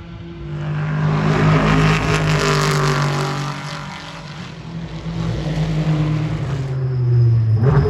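Race cars passing at speed on a circuit, engines at high revs. The first swells and fades in the first half; a second builds up and sweeps past near the end with a sudden drop in engine pitch.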